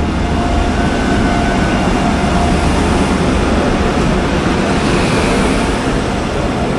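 Passenger express train rolling along the platform line, a steady loud rumble of wheels on rail, with a faint thin squeal over it in the first couple of seconds.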